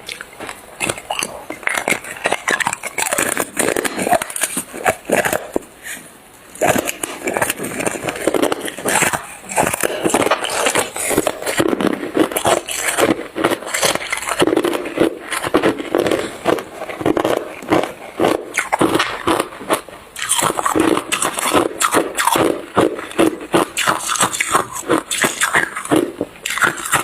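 Hard ice being bitten and chewed: a fast, dense run of crunches and cracks, with short pauses about six seconds in and again near twenty seconds.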